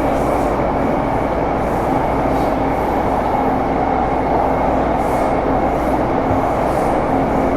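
Interior running noise of a Taipei Metro Series C301 car, with its Bombardier IGBT-VVVF traction equipment, moving at a steady speed. Wheels on rail give a steady rumble, with a thin steady high-pitched whine over it that does not rise or fall.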